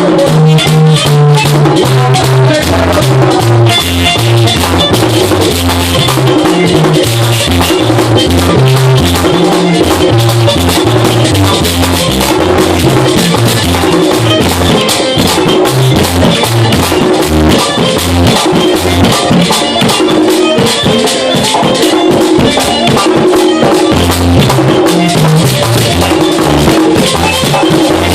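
Merengue típico band playing: a güira scraping a fast steady rhythm, a tambora drum and an electric bass walking through short, quick notes.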